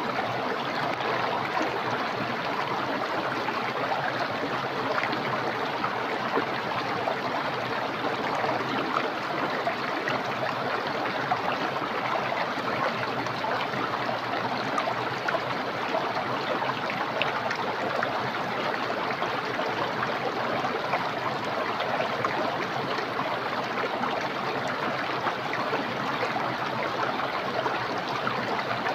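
Small, clear, fast-flowing stream: a steady, unbroken rush of running water.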